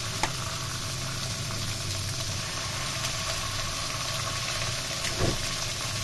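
Eggs and sliced onion and peppers frying in a nonstick wok: a steady sizzling hiss over a low steady hum, with a few light clicks of a plastic spatula.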